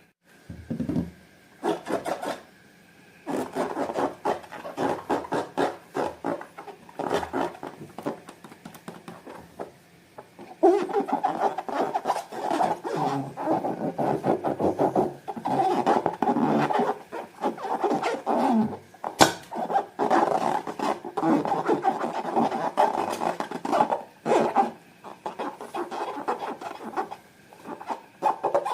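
Slime being squished and worked by hand, a wet crackling and squelching made of many small pops. It comes in short bursts at first, then runs nearly without a break from about ten seconds in, with one sharper click near the middle.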